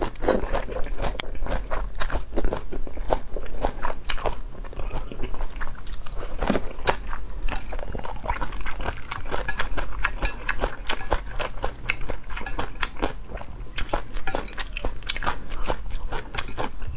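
Close-miked eating sounds: a slurp of wide cold noodle sheets near the start, then steady wet chewing with crisp crunches from shredded cucumber and carrot, a dense run of small clicks.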